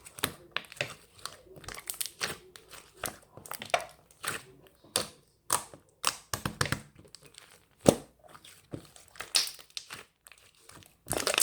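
Irregular crinkling and crumpling of a thin, crinkly material, in quick uneven crackles with one sharper crackle about eight seconds in.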